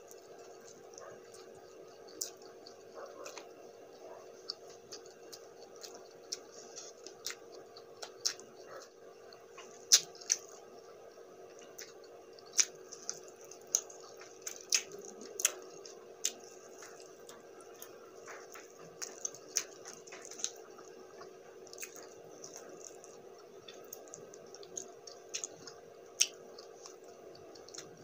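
Close-up eating sounds from sauced chicken wings: wet chewing with many short, sharp mouth clicks and smacks at irregular intervals, over a faint steady hum.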